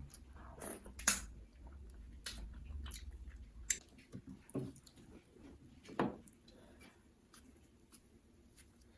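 Close-miked chewing and wet, sticky mouth sounds of eating pounded yam with slimy ogbono and egusi soup, with a few sharp smacking clicks.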